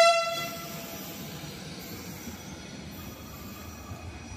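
Trenitalia Jazz regional train: the tail of a short, loud horn blast fades out within about the first second, then the train runs past with steady wheel-and-track noise.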